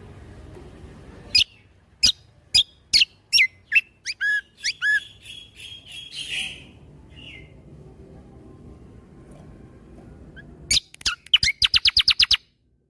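Kecial kombo songbird singing in sharp, high, downward-swept 'shot' notes, about two a second, followed by a few hooked notes and a short buzzy trill. After a pause of a few seconds it ends with a fast rapid-fire run of about a dozen shots.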